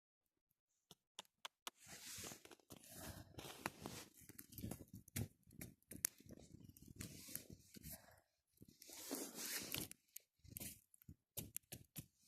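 Irregular rustling and crackling of dry twigs and brush being handled, with many sharp snaps. It starts about two seconds in, after near silence.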